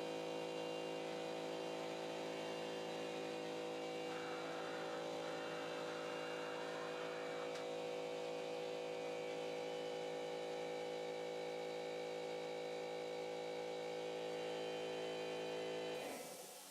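CNC pen-drawing machine running, its stepper motors giving a steady hum made of many even tones. The hum cuts off suddenly near the end.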